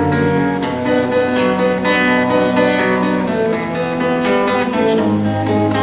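Acoustic guitar playing an instrumental interlude between sung verses, with chords picked and strummed in a steady rhythm.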